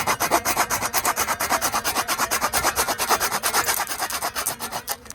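A handsaw cutting through a small piece of wood with quick, even back-and-forth strokes that stop near the end.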